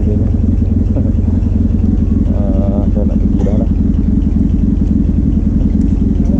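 Suzuki V-Strom 650XT's 645 cc V-twin engine idling steadily, with a fast even pulse.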